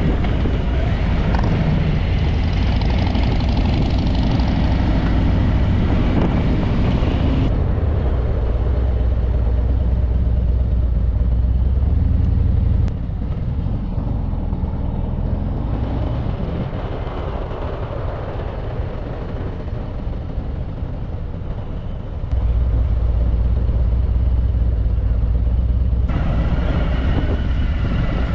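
Harley-Davidson motorcycle engine running under way, a deep steady rumble with wind noise over the microphone. The sound changes abruptly a few times, as one riding clip cuts to another.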